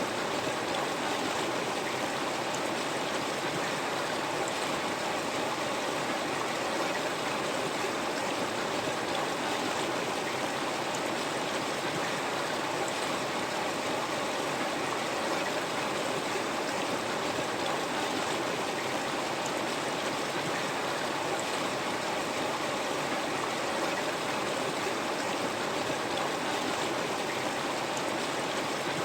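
River water flowing over stones, a steady rushing and burbling that does not change.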